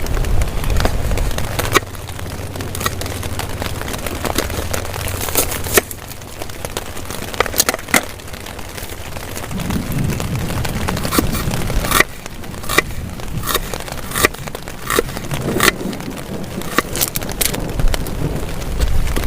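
Steady rain with many irregular sharp crackles and taps. A low rumble comes and goes underneath, strongest at the start, again about ten seconds in, and near the end.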